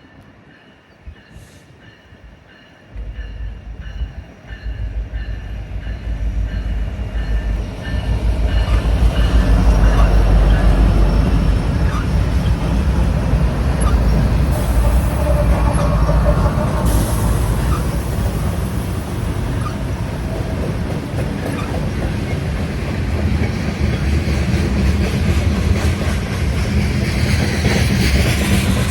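A train running through the station without stopping: its low rumble starts about three seconds in, grows loud by about eight seconds and stays loud, with wheels clicking over the rail joints.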